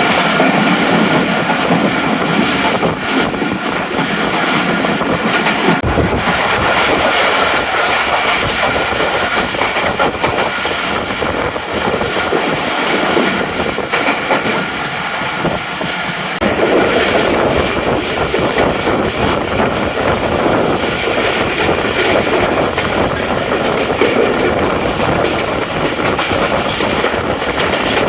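Tezgam Express passenger train running on the rails, a continuous noise of moving coaches and wheels. The sound changes abruptly about six seconds in and again about sixteen seconds in.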